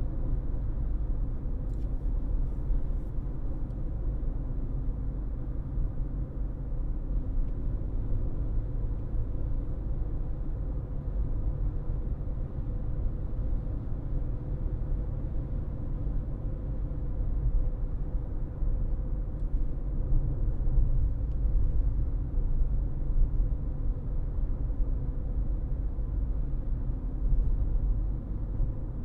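Steady low rumble of a car driving, its road and engine noise, with a faint steady hum.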